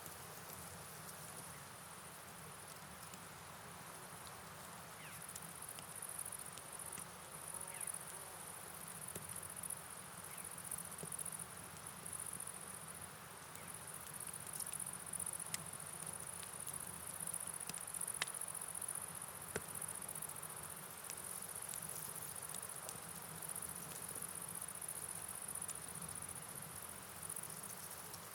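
Steady high-pitched chorus of night insects, crickets, over a soft even hiss of rain and flowing river water, with scattered faint clicks.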